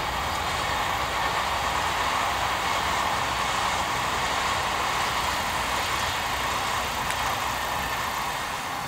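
Odakyu 5000 series electric commuter train running past at a distance: a steady rolling noise of wheels on rail that holds level throughout.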